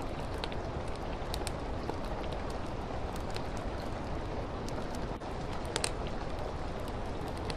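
Steady rain hiss with a wood fire crackling in a fireplace: sharp, irregular pops over the even wash of rain, with one louder pop about six seconds in.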